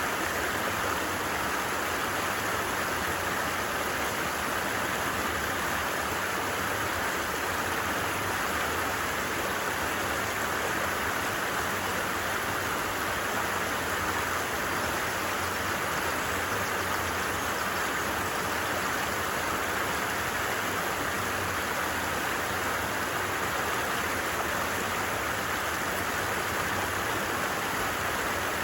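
Stream water rushing and babbling, a steady even noise strongest in the middle pitches and unchanging throughout.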